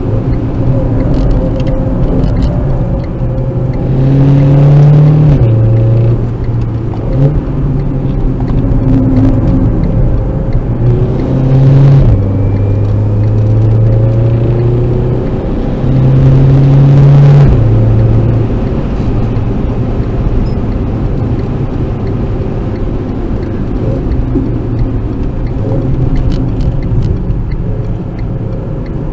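Renault Clio RS's 1.6-litre turbo four-cylinder engine driving under load, heard from inside the cabin. The engine note steps up and down in pitch several times with throttle and gear changes, loudest about 4 s and 16 s in, then settles to a steadier, quieter drone for the last ten seconds.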